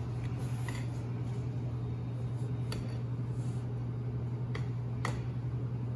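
A utensil stirring a sticky birdseed, flour and gelatin mixture in a bowl, with a few sharp clicks of the utensil against the bowl, over a steady low hum.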